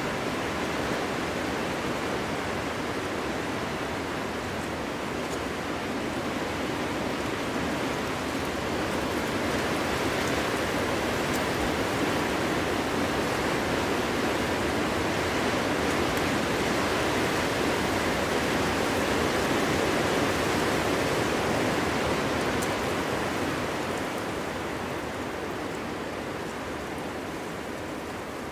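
Strong winter wind blowing through forest trees, a steady rushing noise that swells about a third of the way in and eases off near the end.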